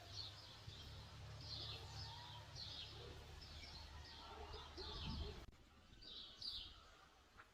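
Birds chirping faintly: short calls that drop in pitch, repeated every half second or so. Under them a low rumble runs and stops abruptly about five and a half seconds in.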